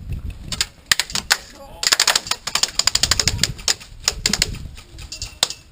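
Airsoft guns firing in several quick bursts of sharp clicks, with wind rumbling on the microphone.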